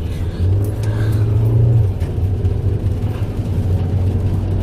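Car engine accelerating hard as the car pulls away, heard from inside the cabin: a low drone that swells over the first two seconds, then settles to a steadier run.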